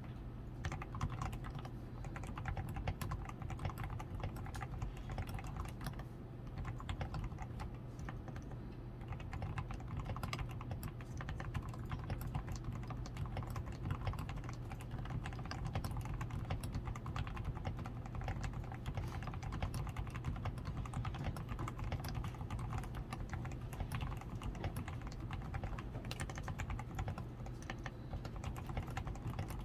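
Steady, continuous typing on a DAREU A87 Pro mechanical keyboard, with dense keystrokes throughout. The keyboard is fully lubed with Krytox 105, with a tape-modded PCB, extra switch foam, lubed stabilizers and XDA keycaps. A steady low hum sits underneath.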